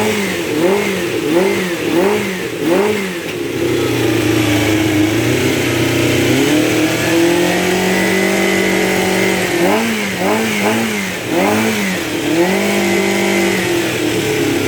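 Freshly overhauled Honda CBX400F inline-four engine being revved: quick throttle blips, each pitch rising and falling back, about every 0.6 s for the first three seconds. It is then held at raised revs for several seconds, blipped a few more times about ten seconds in, and held up again near the end.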